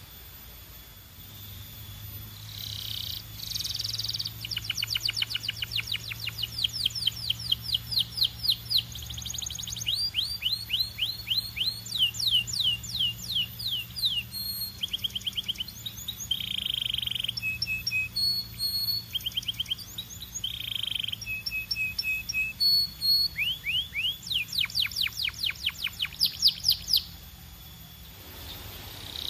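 Belgian canary singing a long song: quick trills of repeated downward-sweeping notes, broken up by harsher buzzy phrases. The song pauses briefly at the start and again near the end.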